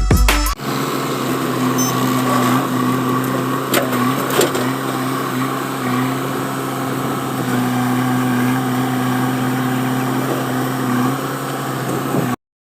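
Diesel engine running steadily at a constant speed, with a couple of faint knocks about four seconds in; it cuts off abruptly near the end.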